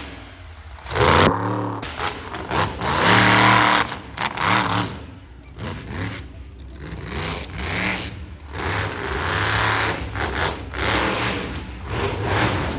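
Monster truck engine revving hard in repeated bursts, its pitch climbing and dropping again several times as the throttle is opened and closed.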